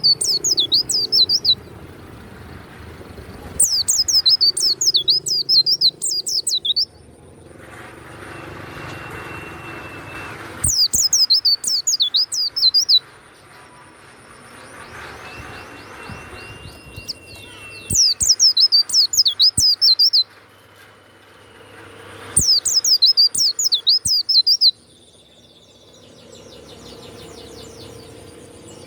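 A pleci (white-eye, Zosterops) singing in loud bursts of rapid, high-pitched chattering notes. There are about five bursts of two to three seconds each, separated by pauses of a few seconds.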